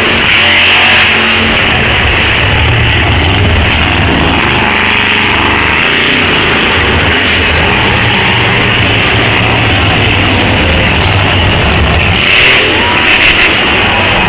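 Monster truck engine running loud and revving, with a few short sharp bangs near the end.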